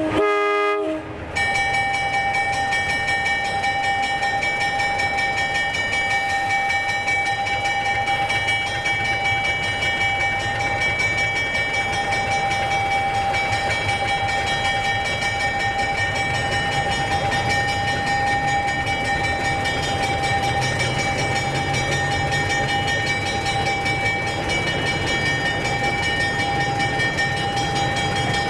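1946 H.K. Porter 80-ton narrow-gauge diesel locomotive: a short horn toot right at the start, then a steady chord of high tones held unchanged over the engine's low rumble as the train runs.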